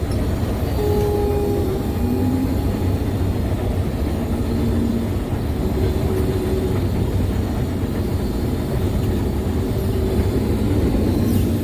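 Combine harvester running steadily under load while cutting soybeans: a constant low engine and machine drone.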